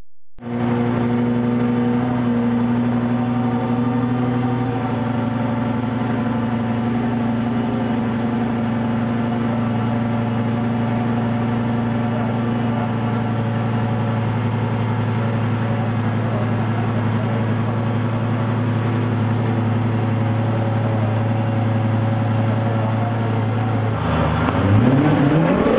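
Lamborghini Gallardo V10 engine idling steadily after its sound cuts in abruptly about half a second in; the idle settles slightly lower a few seconds later. Near the end the revs climb in a rising blip.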